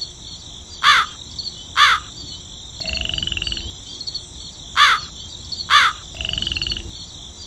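Countryside nature ambience: short falling bird calls in two pairs, and two brief rattling croaks, over steady high-pitched insect chirring.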